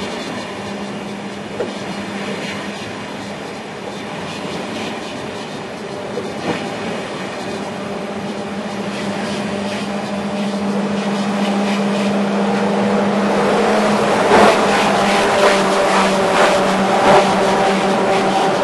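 Eurostar Class 373 train passing along the platform: a steady hum under the noise of the rolling coaches, growing louder over the last several seconds as the power car draws level, with four sharp wheel clacks near the end.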